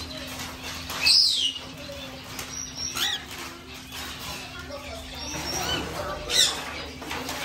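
Pet bird giving three short, high calls, each falling in pitch: one about a second in, one about three seconds in, and a loud one near the end.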